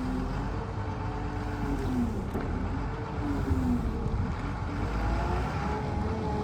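Caterpillar M322C wheeled material handler's diesel engine running, its pitch rising and falling as the engine speed changes.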